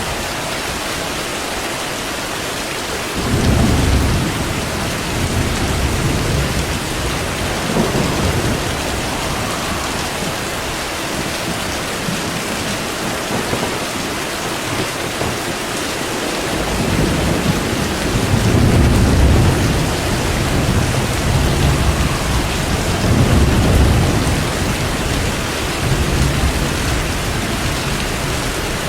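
Steady heavy rain with rolling thunder: a low rumble swells about three seconds in and fades, then thunder rolls again almost continuously through the second half.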